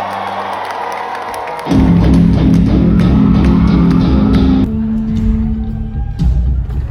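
Live rock band playing, recorded from the audience: guitar alone at first, then the full band with drums comes in loud about a second and a half in.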